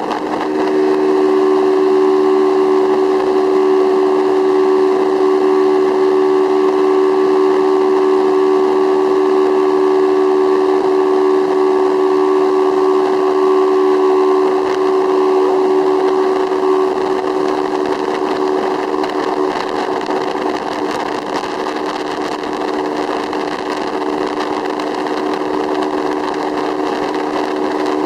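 Motorboat engine running steadily under way, a loud constant hum that eases off somewhat about two-thirds of the way through.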